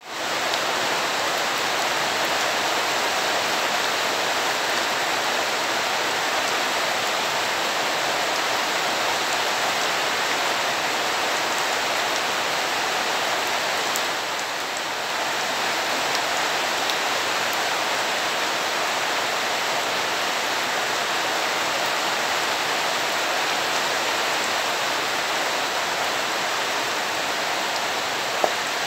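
Steady rain falling on a muddy yard, into puddles and water pots. It eases slightly about halfway, and there is a single sharp tick near the end.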